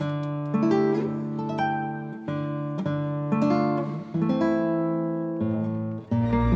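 Instrumental acoustic guitar music: slow plucked chords, each one ringing and fading before the next, with a fuller sustained backing and bass coming in near the end.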